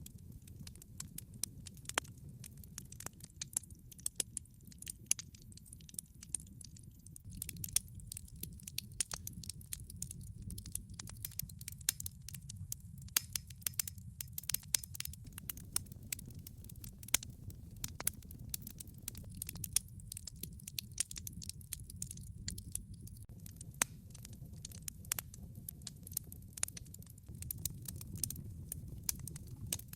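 Wood fire burning in a fireplace: many irregular sharp pops and crackles from the burning logs over a steady low rumble of the flames.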